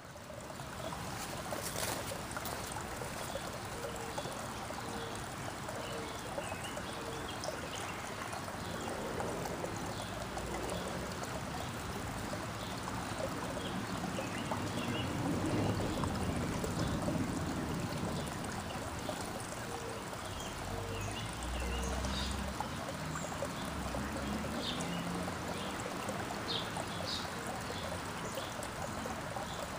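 Backyard songbirds giving scattered short chirps over a steady rushing, water-like background noise.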